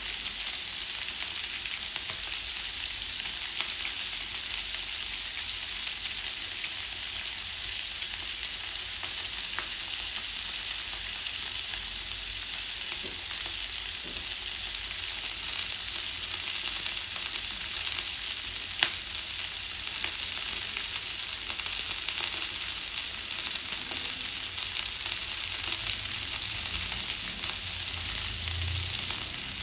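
Chopped green vegetable stems sautéing in a frying pan: a steady sizzle with faint scattered pops, and one sharper pop a little past the middle.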